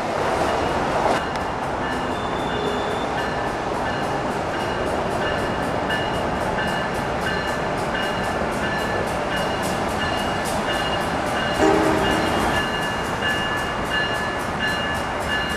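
Electric trains running through a station: a steady rumble with fast, evenly spaced clicking, a repeating high two-note pulsing tone from about two seconds in, and a short low horn note about twelve seconds in.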